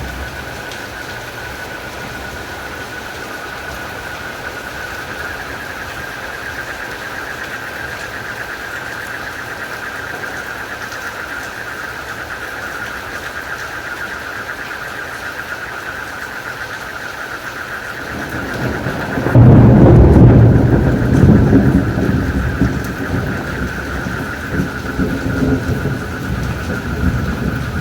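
Steady rain with a constant high-pitched chorus of crickets and frogs. About 18 seconds in, thunder rumbles in, peaks a couple of seconds later and keeps rolling to the end.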